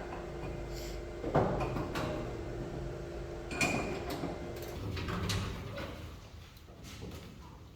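A few sharp knocks and clanks, the loudest about a second and a half in and another about three and a half seconds in, over a steady hum that stops at about the same time.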